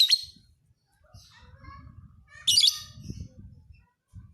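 Lovebird calling: two loud, shrill bursts of rapid chattering calls, one at the start and one about two and a half seconds in, with fainter chirps between them.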